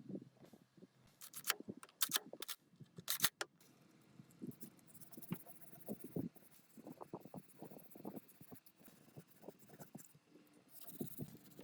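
Irregular sharp clicks and taps, several in quick succession in the first few seconds, followed by softer knocks and rubbing, with a short hiss near the end.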